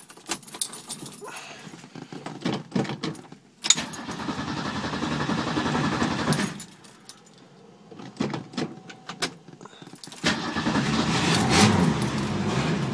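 Keys jangling in the ignition, then a cold start of a 1966 Ford Mustang's 200 cubic inch inline six: a first attempt of about three seconds that stops, a pause with clicks, then a second try about ten seconds in where the engine starts and keeps running.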